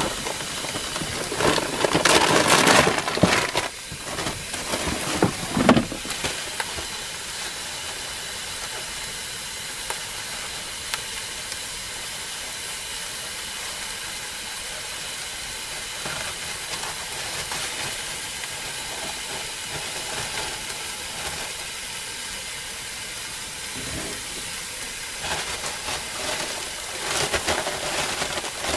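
Hamburger patty sizzling in a small stainless steel pot on a camp stove, a steady hiss. Louder bursts of rustling and handling noise come about two seconds in, again around five seconds, and near the end.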